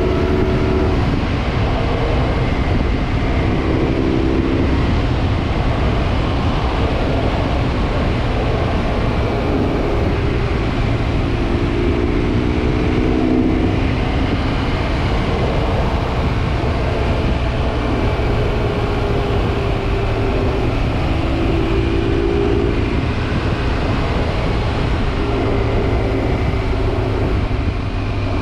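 BMW R1200GS Adventure's boxer-twin engine running under way through a Dominator exhaust with the dB killer removed. The engine note rises and falls every few seconds.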